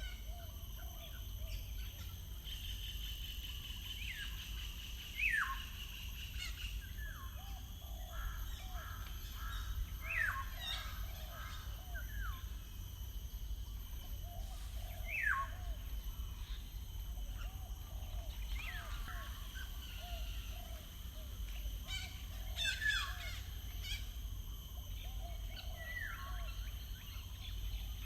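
Wild birds singing: a loud, sharply descending whistled note comes every few seconds, over soft, low repeated chirping and a steady low rumble.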